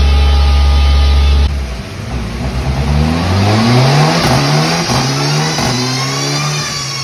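Mitsubishi Lancer Evolution rally car's turbocharged four-cylinder engine pulling hard on a dyno, climbing in revs and dropping back at each quick sequential gear change several times, then holding steady near the end. It follows a steady loud low drone that cuts off about a second and a half in.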